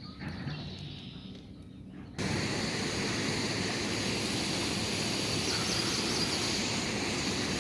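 Quiet outdoor ambience, then about two seconds in a sudden switch to the steady, even rush of a river running below a waterfall.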